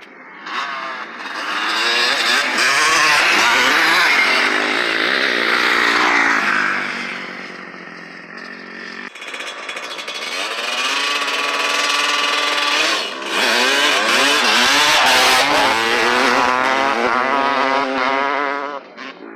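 Motocross dirt bikes riding past close by, engines revving up and down through the gears. The sound swells twice, loudest from about two to seven seconds in and again from about ten to eighteen seconds, and drops away near the end.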